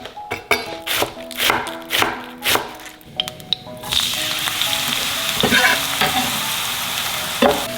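Background music and a row of sharp knocks. Then, about four seconds in, spring onions start sizzling steadily in hot frying oil, with a couple of knocks as they are stirred.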